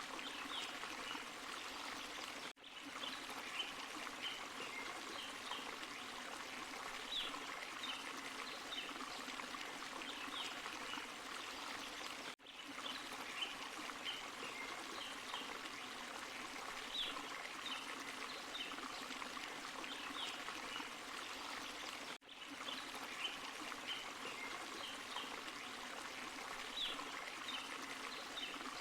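A small forest waterfall and stream running steadily, with short higher splashes and drips over the rush of water. The sound cuts out for a split second three times, about ten seconds apart.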